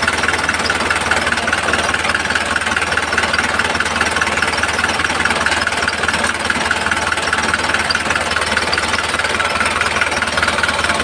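A small motor running steadily with an even, fast buzz that doesn't change in speed.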